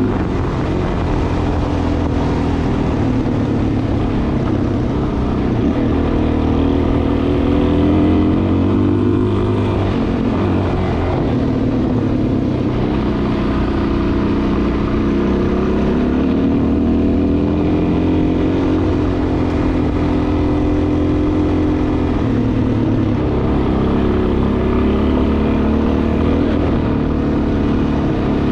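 Dual-sport motorcycle engine running under way, its pitch rising and falling repeatedly as the throttle opens and closes, over steady wind and road noise.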